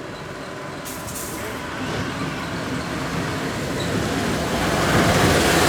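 A road vehicle's engine and road noise, growing steadily louder.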